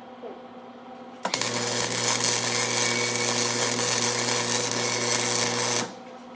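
Electric arc welder laying a bead: a loud, even crackling hiss over a steady electrical hum, striking up abruptly about a second in and cutting off sharply after about four and a half seconds.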